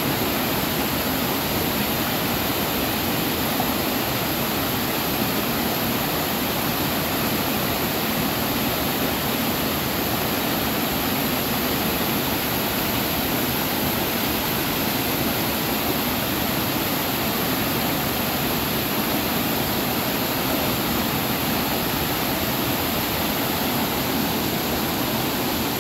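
A waterfall's steady rush of falling and splashing water, loud and even throughout.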